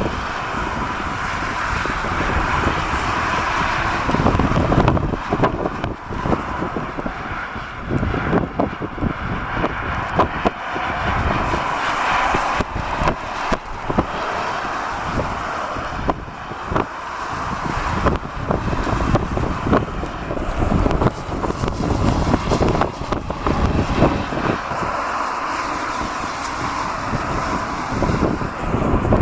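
Gusty storm wind buffeting the microphone with irregular low thumps, over the steady rumble and whine of a jet airliner's engines on approach.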